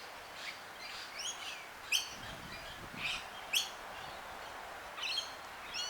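Birds chirping: short high calls, some sweeping downward, a second or so apart, over a faint steady hiss.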